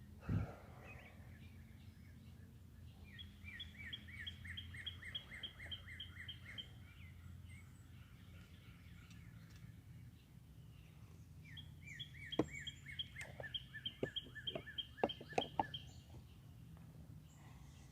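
A songbird singing two long runs of quick, evenly repeated down-slurred whistled notes, a few seconds apart. A low thump comes right at the start, and several sharp clicks fall during the second run, over a faint steady low hum.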